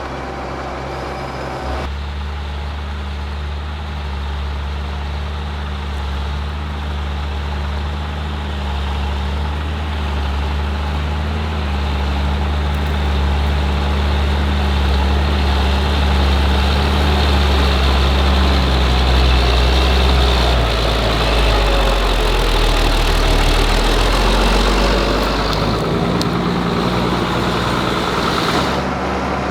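Ford TW tractor's diesel engine pulling a plough: a steady low drone that grows louder through the middle and shifts down in pitch about two-thirds of the way through.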